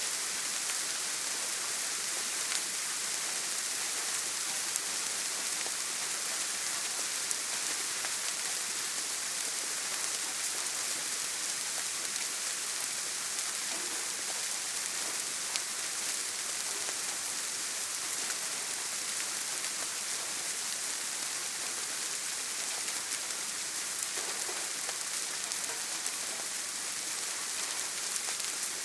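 Heavy rain falling steadily on a tin roof: a dense, even hiss with faint scattered drop ticks.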